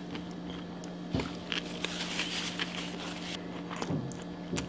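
Close-miked chewing of a mouthful of cheesy fries: soft wet mouth sounds and lip smacks, with a finger being sucked clean near the end, over a steady low hum.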